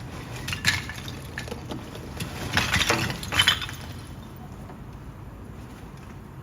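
A burst of sharp clattering and clinking impacts, loudest between about two and a half and three and a half seconds in, over a steady low engine rumble.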